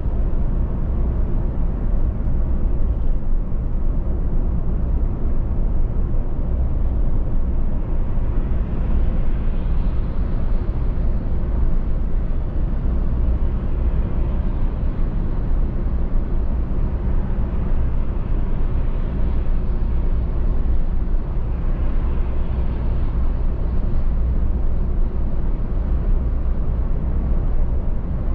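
Steady low rumble of a car driving at speed, engine and tyre-on-road noise together, with the tyre hiss swelling a little around ten seconds in and again a little after twenty.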